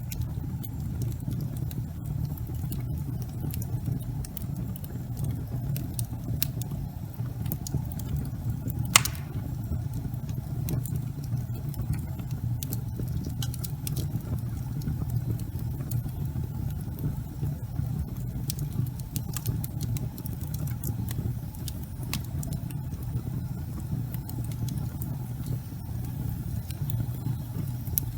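Wood fire burning in a fireplace: a steady low roar of flames with scattered small crackles, and one louder pop about nine seconds in.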